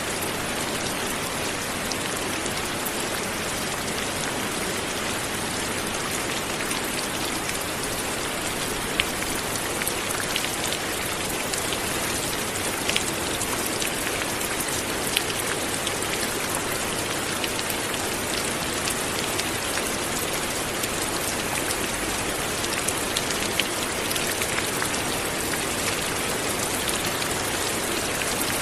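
Light rain falling steadily, an even hiss with scattered drop ticks on a hard surface.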